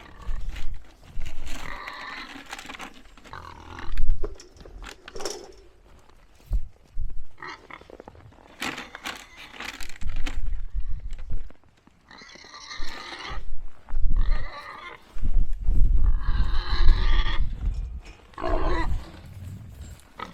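A domestic pig giving a series of loud squealing grunts, about five separate calls of a second or so each, typical of a pig eager for its feed. A sharp knock sounds about four seconds in, with low rumbling between the calls.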